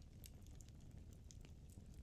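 Firewood burning in a fireplace, crackling faintly: scattered small snaps and pops over a low rumble.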